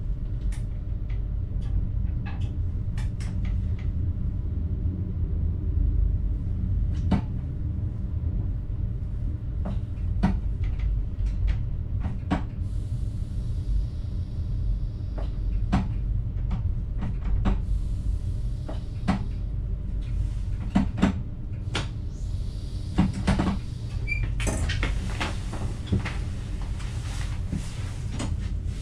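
Inside a train driver's cab moving slowly: a steady low rumble with many short clicks, knocks and rattles, thickest near the end, and a faint high hiss that comes in about halfway.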